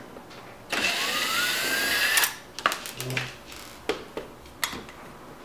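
Power drill/driver run for about a second and a half, its motor whine rising in pitch as it turns a screw on the dishwasher's electrical junction box. A few light clicks and knocks follow as the parts are handled.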